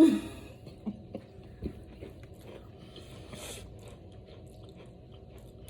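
Person biting into and chewing a small crumbly butter cookie: one loud sound right at the start, then soft crunches and chewing, louder about three seconds in.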